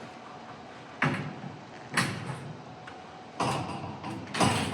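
Metal clunks and scraping as hardware is handled and fitted onto a garage door's torsion spring bar: four separate knocks about a second apart, each trailing off.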